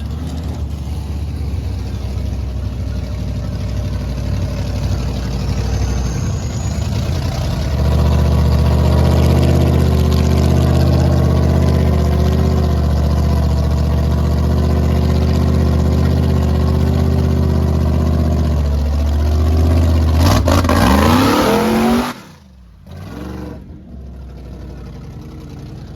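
Supercharged big-block V8 of a mud truck under heavy throttle, its note climbing and holding at high revs, then revving higher before cutting off abruptly about 22 seconds in.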